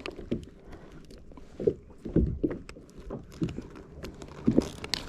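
Irregular dull knocks and thumps, about eight over a few seconds: a freshly caught fish being handled and killed, knocking against a hard surface.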